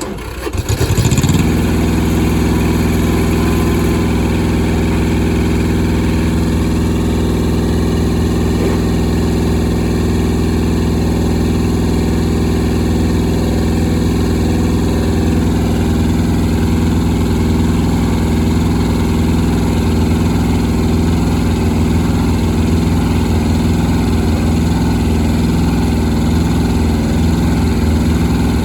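Truck auxiliary power unit's engine starting in the first second, then running at a steady, even speed.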